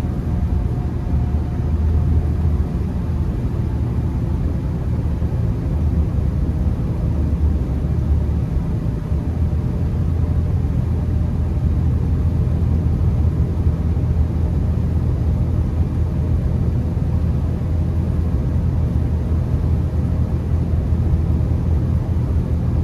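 Steady low rumble of a Honda Accord on the move through snow, engine and tyre noise heard from inside the cabin.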